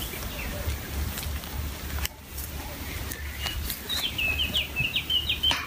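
A small songbird singing a quick run of short, high chirps in the second half, over a steady low rumble.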